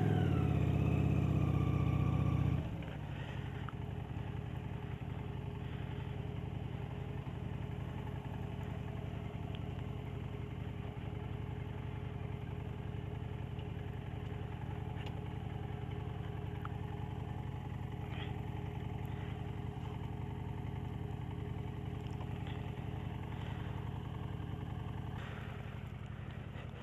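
Motorcycle engine revving up for about two and a half seconds, then dropping back to run steadily at a low, even pitch.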